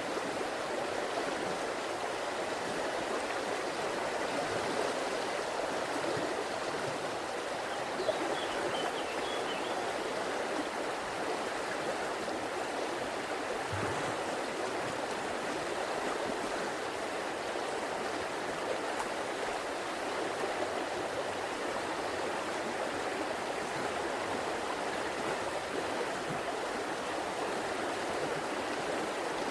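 A river flowing: steady, even sound of running water.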